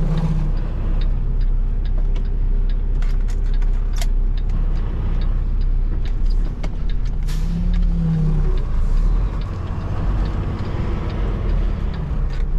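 Semi-truck's diesel engine running in the cab with a steady low rumble while the rig is slowly backed into a parking spot, with a few sharp clicks scattered through.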